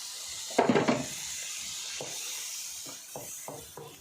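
Water added to a pan of thick tomato sauce, with a brief loud splash a little over half a second in over a steady hiss. Then a spoon stirring the sauce, knocking against the pan a few times a second.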